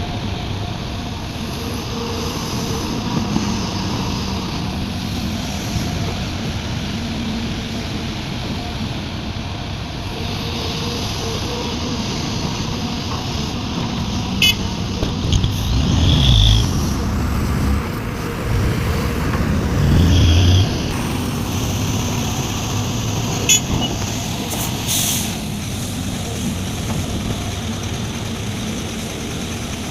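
Sumitomo SH350 hydraulic excavator's diesel engine running under working load, rising in two louder surges about halfway through as it digs and swings, with a few sharp knocks.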